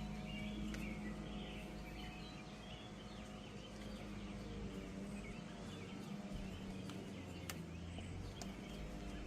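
Birds chirping faintly over a low, steady hum, with a few light clicks.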